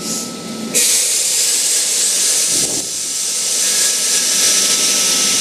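Loud hiss of compressed air venting from an XPT train, cutting in suddenly about a second in and holding steady.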